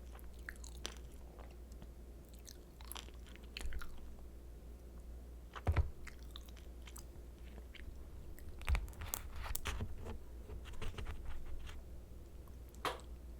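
A person biting into and chewing pan-fried kimchi dumplings, with scattered crunches and chewing clicks. The loudest bites come about six and nine seconds in.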